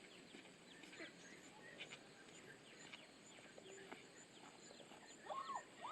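Faint chirping of small birds: many short, falling chirps scattered irregularly, with a louder brief call near the end.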